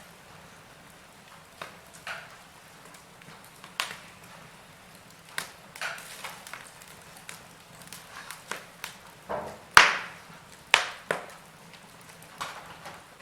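Wood fire in a fireplace crackling, with irregular sharp pops and snaps over a low hiss; the loudest cracks come in a quick cluster about ten seconds in.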